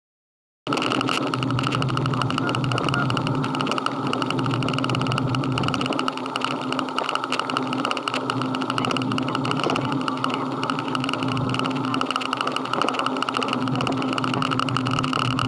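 Motorcycle engine running steadily, cutting in abruptly about half a second in and holding an even pitch, with a constant rush of noise over it.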